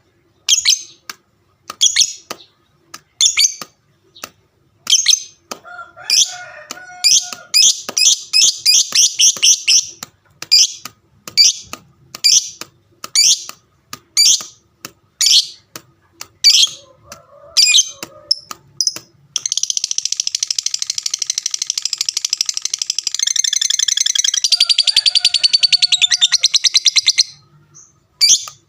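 Lovebird giving sharp, high chirps about once a second, then, about two-thirds of the way in, breaking into a long unbroken rapid chatter ("ngekek panjang") that lasts about eight seconds and stops abruptly.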